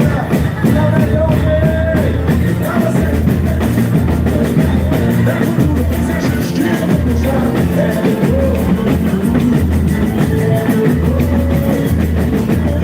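Live boi-bumbá toada performance: heavy, steady percussion from the drum section with a singer's voice over the band.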